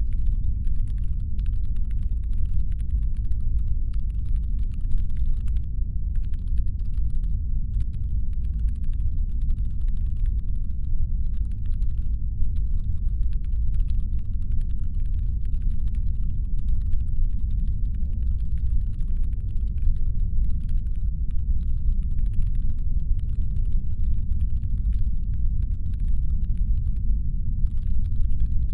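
Steady deep brown-noise rumble standing in for a spaceship's engine hum. Over it runs a much fainter layer of rapid fine clicking, in stretches of a few seconds with short gaps.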